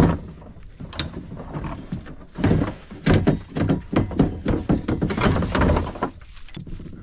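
Kayak knocking and bumping as it is hauled to the water: a quick, irregular run of hollow thumps in the middle of the stretch.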